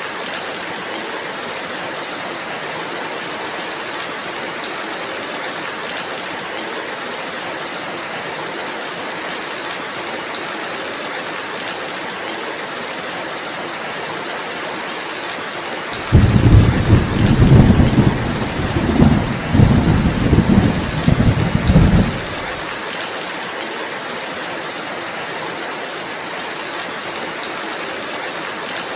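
Steady rain falling, with a loud roll of thunder a little past halfway. The thunder comes in suddenly, rumbles in several swells for about six seconds, then cuts off, leaving the rain.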